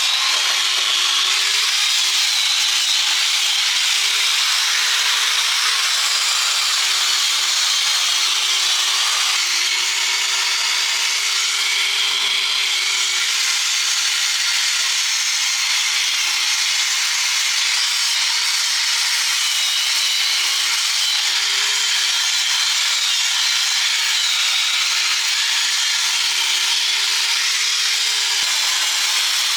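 A handheld power tool grinding steadily against metal without a break, its motor tone wavering slightly as the load changes.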